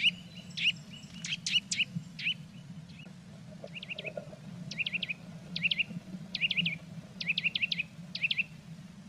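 Blue tit giving short high chirping calls, at first singly, then in quick clusters of two to five notes about once a second, over a faint low steady hum.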